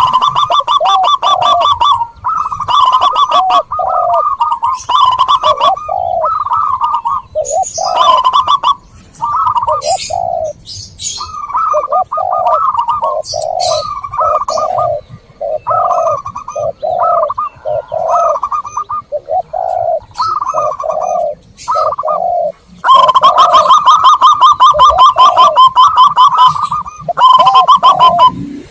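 Zebra doves and spotted doves cooing together. There are fast rattling trills and repeated rounded coos throughout, and high thin chirps from small birds mixed in. The trills are loudest at the start and again for a few seconds near the end.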